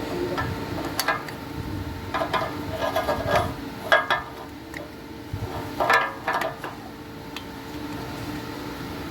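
Scattered metallic clicks and clinks of hand tools and transmission parts being handled, in two bunches a few seconds apart, over a steady background hum.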